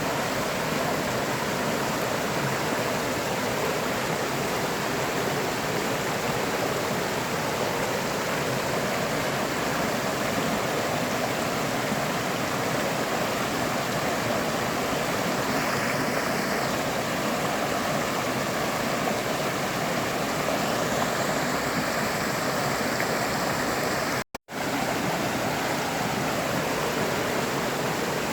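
River water flowing in a steady, even rush. The sound drops out completely for a split second a few seconds before the end.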